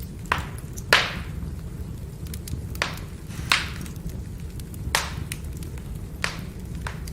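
Burning firewood crackling, with about six sharp pops of splitting wood over a steady low rumble of flames; the loudest pop comes about a second in.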